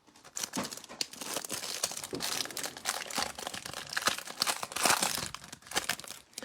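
Crinkling plastic wrap and tearing cardboard as a Mosaic trading-card hanger box is opened, an irregular crackle that goes on for several seconds.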